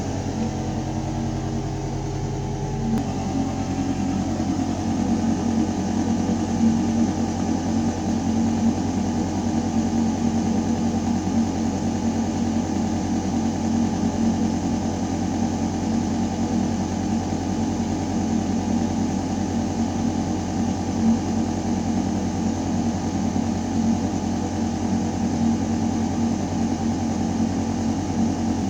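Building ventilation system humming steadily: a constant mechanical drone with several steady tones over the rush of air moving through ductwork. The deepest rumble eases slightly about three seconds in.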